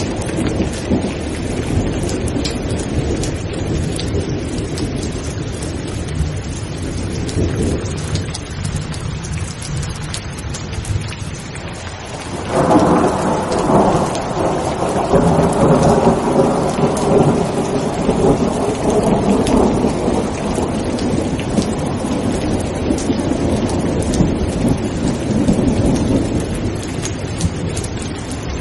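Steady heavy rain with rolling thunder. The rumble eases, then a fresh thunderclap breaks in about twelve seconds in and rumbles on, slowly dying away under the rain.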